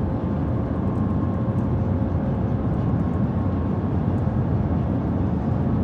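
Cabin noise inside the Shanghai Transrapid maglev train at over 320 km/h: a steady rush and rumble with a faint steady whine.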